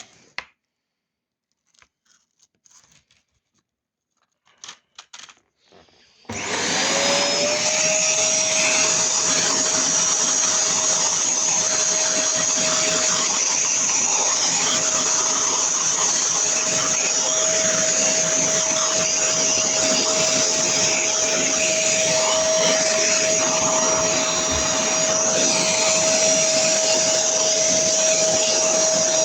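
A few faint knocks, then a vacuum cleaner switches on about six seconds in. Its motor spins up with a short rising whine and then runs steadily, a loud even rush with a steady high whine over it.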